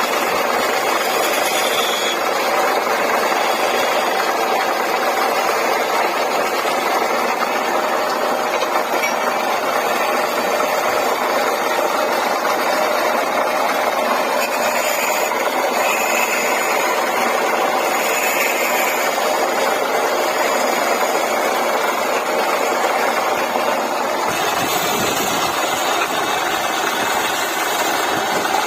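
Wood lathe running steadily: a continuous motor hum and whir with no pauses.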